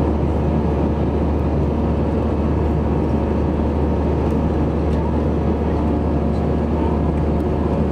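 Steady low drone inside an Airbus A321 airliner's cabin, the constant hum of the aircraft's running machinery and airflow, unchanging throughout.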